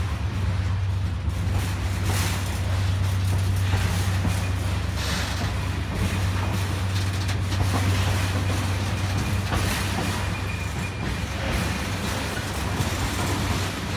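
Class 70 diesel-electric freight locomotive's engine running with a steady low drone as the freight train pulls away, with occasional knocks from the moving train.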